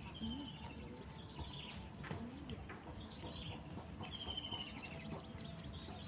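Outdoor birds calling, a short high trill repeated every two to three seconds, over a steady low background rumble.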